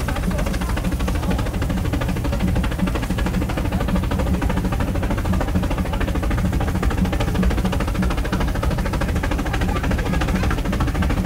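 Brienz Rothorn Bahn cog-railway train running, heard from on board: a steady rumble with a fast, regular pulsing clatter from the running gear.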